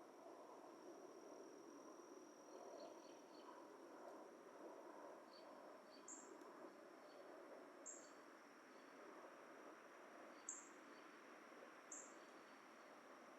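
Faint dusk forest ambience of night insects: a steady high-pitched trill, with a short high chirp repeated about every two seconds from about six seconds in.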